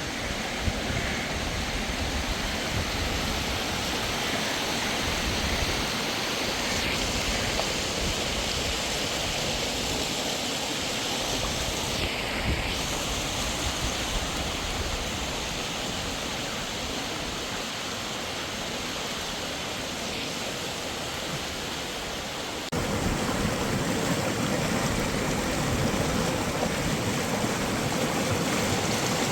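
Waterfall: a steady rush of falling water that steps up suddenly in level about three-quarters of the way through.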